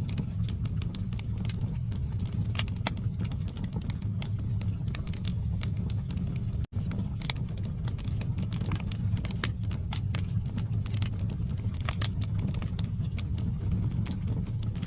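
Log fire burning in a fireplace: wood crackling with many sharp irregular pops over a steady low rumble of flame. The sound drops out for an instant about halfway through.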